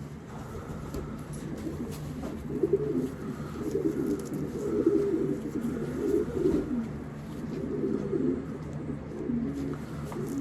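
Racing pigeons cooing, repeated low warbling coos that overlap one another from about two seconds in, over a steady low hum.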